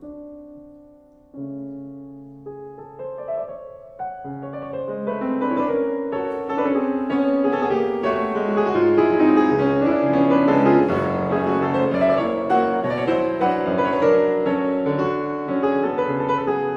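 Piano music: a few held chords at first, then a fuller, louder flowing passage from about four seconds in.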